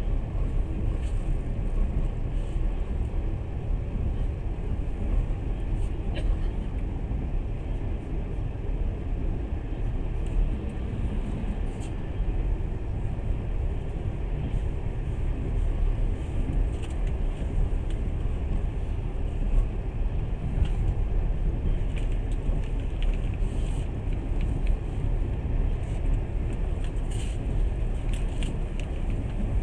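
Passenger train running along the rails, heard from inside the carriage: a steady low rumble with a few faint clicks and rattles.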